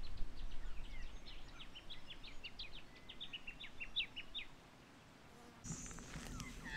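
A small bird singing: a rapid run of short, high chirps for about four seconds, over a low wind rumble. Near the end the sound changes abruptly to a different, louder outdoor background.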